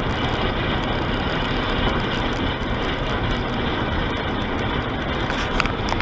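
Steady road and wind noise inside a car cruising at highway speed, with a few short clicks near the end.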